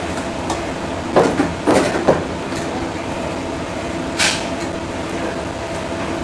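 A steady mechanical hum, with a few knocks and clatters between one and two seconds in and a short hiss past the middle.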